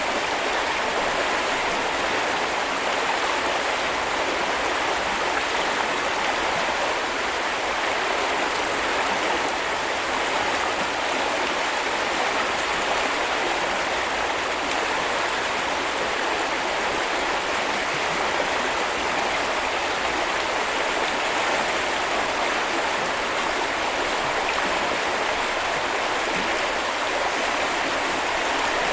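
A small river running, a steady rush and babble of water.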